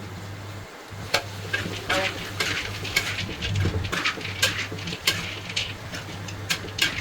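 Metal spatula scraping and knocking against a wok in irregular strokes, about two a second, while textured vegetable protein is stir-fried with curry paste. A low steady hum runs underneath.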